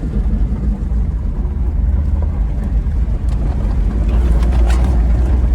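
Japanese mini pickup truck driving, a steady low rumble of its small engine and tyres on the road, with a few faint clicks and crackles about four seconds in.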